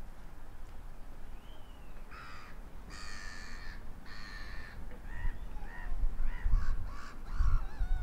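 Birds calling: three harsh, drawn-out caws about two to five seconds in, then a quick run of shorter calls that bend up and down in pitch. Low gusts of wind rumble on the microphone in the second half.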